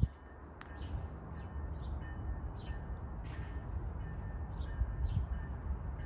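Small birds chirping, a short falling call about twice a second, over a low steady outdoor rumble.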